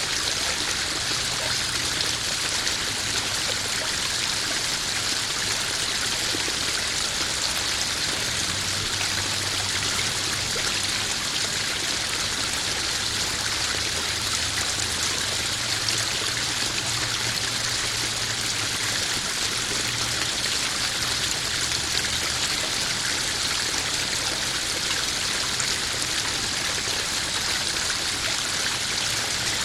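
Small garden waterfall splashing and trickling steadily into a koi pond, an even, unbroken rush of water with a faint low hum beneath it.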